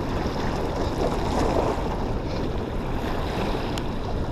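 Steady rushing noise of wind buffeting the microphone over water running at a dam, with a low rumble throughout.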